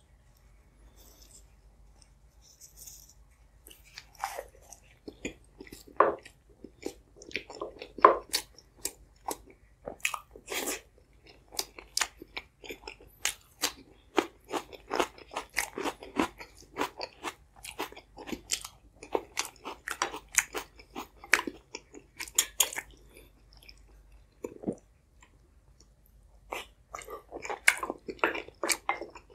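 A person chewing food close to the microphone, with crunchy bites and a dense run of sharp clicking mouth sounds. It is quiet for the first few seconds, and there is a short lull about three quarters of the way through.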